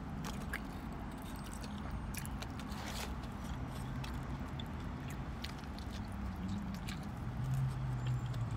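Close-up eating sounds of a mouthful of lumpia burger being bitten and chewed: scattered wet mouth clicks and smacks over a steady low hum.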